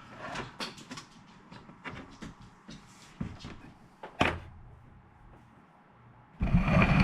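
Handling noise as an old Koss stereo receiver is unplugged: a string of small clicks and knocks from the plug and cord, a sharp click about four seconds in, and a louder scuffling knock near the end.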